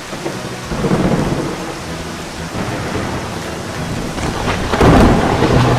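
Cartoon sound effect of steady rain with thunder rumbling. The rumble swells about a second in and again, louder, near the end.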